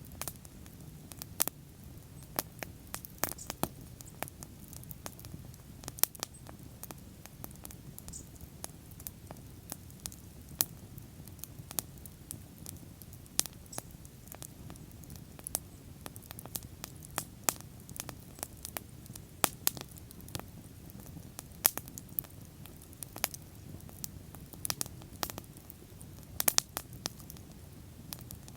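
Wood bonfire crackling: irregular sharp pops and snaps, a few louder than the rest, over a low steady rumble of the flames.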